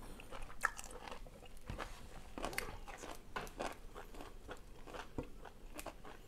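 A person chewing crunchy food, a string of irregular crisp crunches and bites.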